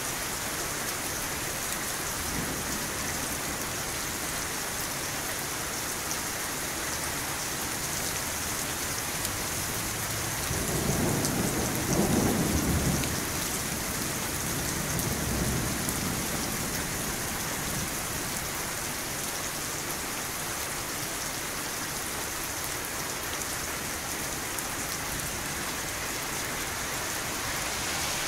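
Steady rain falling, with a roll of thunder rumbling in about ten seconds in and peaking near twelve seconds, then a fainter rumble a few seconds later.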